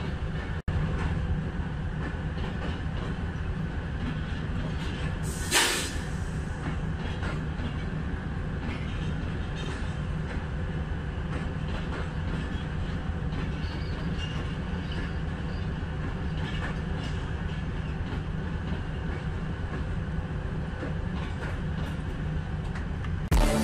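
Pakistan Express passenger coaches rolling by on the track, a steady rumble and clatter of wheels on rails, with one brief loud burst about five seconds in.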